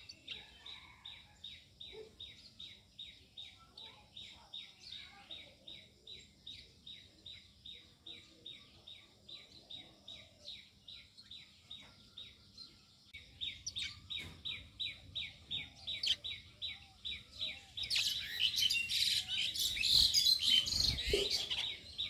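A bird calling with a steady run of short, falling chirps, about three or four a second. Near the end the chirping swells into a louder, busier chorus.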